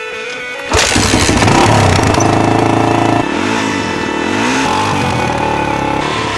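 Dirt bike engine running hard, cutting in suddenly under a second in. From about three seconds in, the revs rise and fall over and over.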